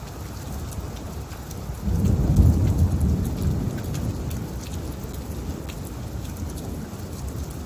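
Steady rain falling, with a roll of thunder that swells about two seconds in and slowly dies away.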